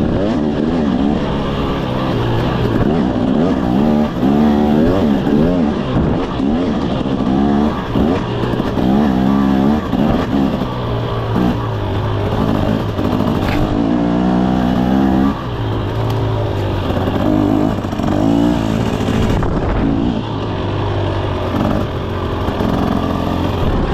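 KTM 300 SX single-cylinder two-stroke dirt-bike engine being ridden hard, revving up and dropping back again and again as the throttle is worked, about once a second.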